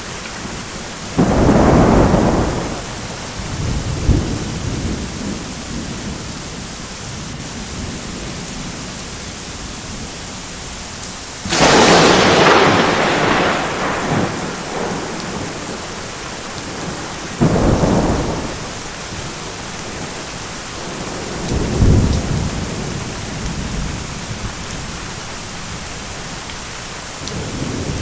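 Thunderstorm: steady rain falling throughout, with repeated thunder. A sudden clap comes about a second in, and the loudest, a sharp crack, comes near the middle and fades into rumbling over a few seconds. Another sharp clap follows later, then a lower rumble.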